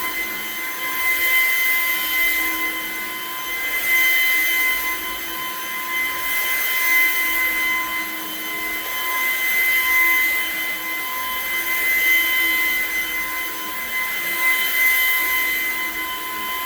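Portable vacuum cleaner running on a throw rug, its motor giving a steady high whine, the sound swelling and fading every couple of seconds as it is passed back and forth.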